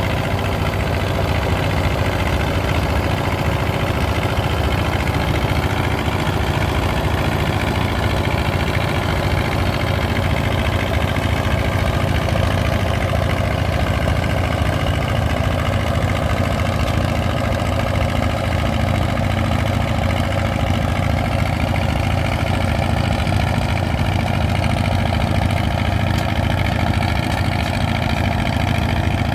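Vintage tractor engine running steadily at a fairly even speed.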